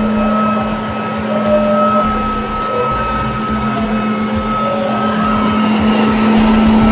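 Battery-powered ride-on floor scrubber running, its vacuum and brush motors giving a steady hum with a constant high whine over it.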